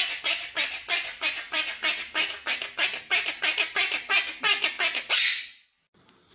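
Quaker parrot (monk parakeet) giving a rapid run of short, harsh squawking calls, about four to five a second, which stops suddenly about five seconds in.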